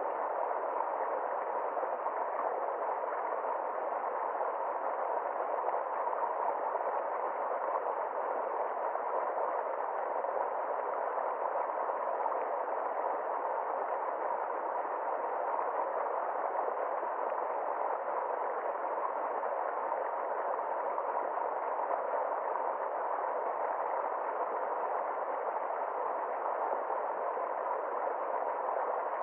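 Steady rushing water, an even hiss-like noise with no changes or separate splashes.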